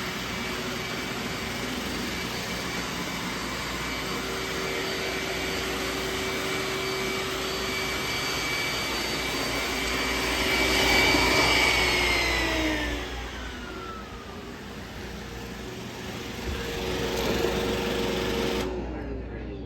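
Roomba robot vacuum running: a steady whir with a high whine. About two thirds of the way in, the whine falls away as the motor winds down, and a lower running sound then carries on until it cuts off sharply near the end.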